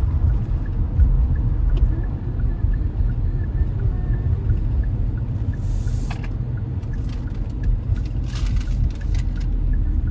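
Steady low rumble of road and engine noise inside a moving car's cabin, with a few short hissing sounds about six and eight seconds in.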